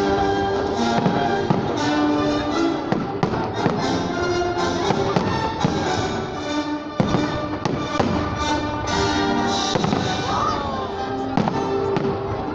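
Fireworks salute bursting overhead: repeated sharp bangs of exploding shells at irregular intervals, over music with held notes.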